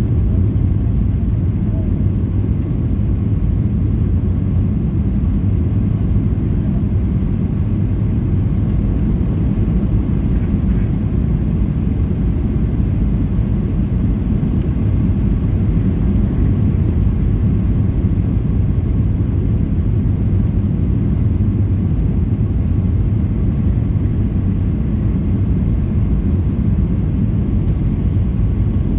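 Steady cabin noise inside a Boeing 737-800 in flight: a constant, deep rumble of engines and airflow, with no change in level.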